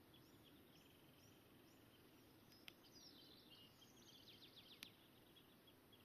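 Faint songbirds singing: a short high note repeated about twice a second and a rapid trill, with a busier stretch of song in the middle. Two sharp clicks, one a little before the middle and one near the end.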